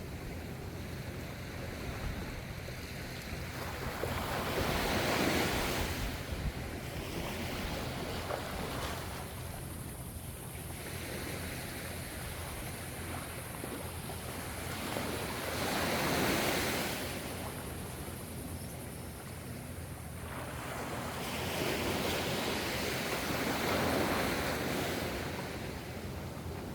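Ocean waves breaking and washing in: a noisy surge of surf swells and falls away four times, about every five to six seconds, over a steady low rumble.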